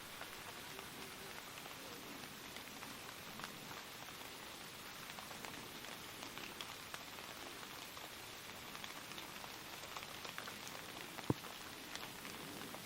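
Faint light rain: a steady hiss dotted with small drop ticks, and one sharper tick about eleven seconds in.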